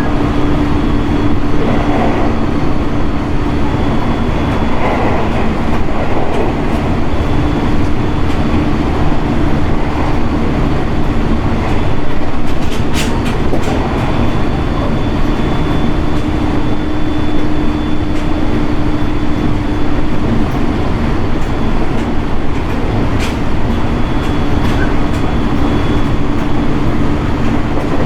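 Running noise of a JR East 701 series electric multiple unit at speed, heard inside the passenger car: a steady rumble of wheels on rail with a held hum. A few sharp clicks from rail joints come through, about halfway and again near the end.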